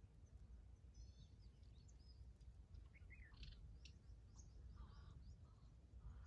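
Faint scattered chirps and short calls of small birds over a low steady rumble.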